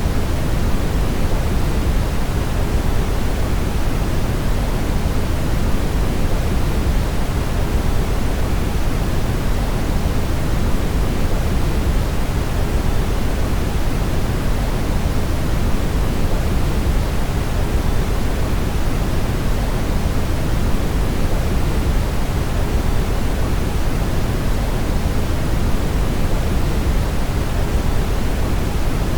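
Steady brown noise: an even, unbroken rush of sound, heaviest in the low end and fading toward the highs, with no changes.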